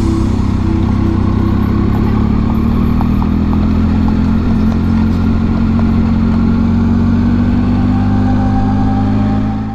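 Triumph Tiger 800 XRt motorcycle's three-cylinder engine running steadily under way, its pitch rising slowly, with wind and road noise.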